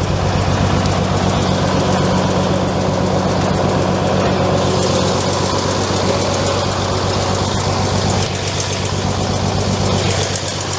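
Scania-Vabis LT76 truck's straight-six diesel idling steadily after a start, running well.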